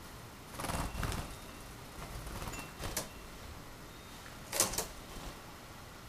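Soft rustling and a few sharp clicks, the loudest a close pair about four and a half seconds in: a small tame bird moving about on a man's hands and fluttering off them.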